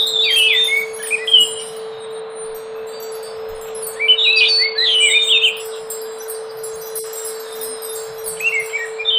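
Scaly thrush singing: three bursts of quick, clear, bell-like whistled notes, mostly falling in pitch, a few seconds apart, over a steady low hum.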